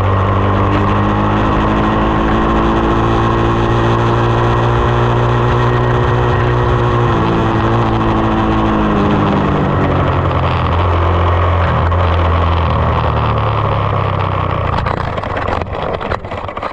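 2020 SSR 189 dirt bike's single-cylinder four-stroke engine running under way. Its pitch climbs and falls as the throttle is worked, and it eases off near the end.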